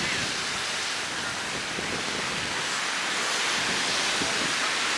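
Steady rushing hiss of ocean surf and wind on a beach, swelling slightly toward the end.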